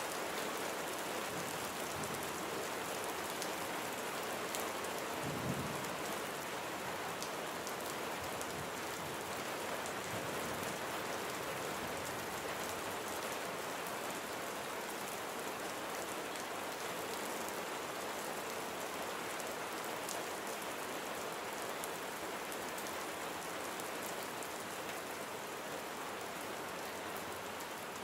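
Steady rain falling, with raindrops ticking on a surface. A brief low thump sounds about five seconds in.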